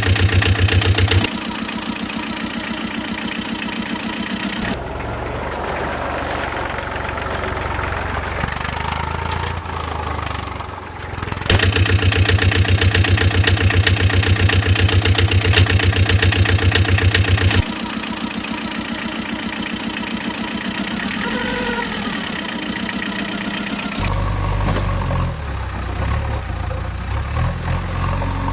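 Vehicle engine sound effects running steadily, cutting abruptly from one engine sound to another every few seconds.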